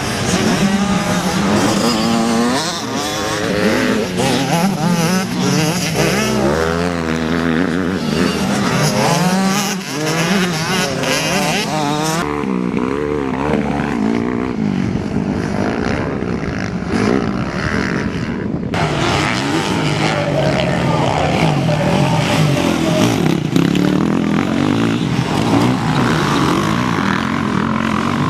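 Motocross bikes racing, several engines revving up and down in quick rising and falling pitches as they pass. Between about 12 and 19 seconds in the sound turns duller, losing its top end, then comes back bright.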